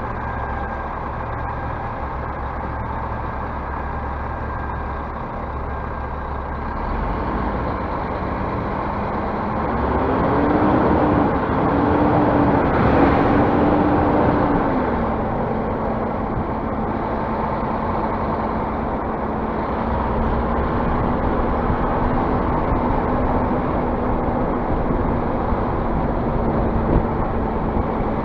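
Scania bus diesel engine running steadily; about ten seconds in its revs rise and fall twice, then settle back to a steady run.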